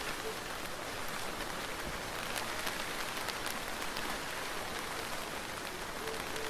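Soft, steady rain falling: an even hiss with scattered sharp ticks of single drops.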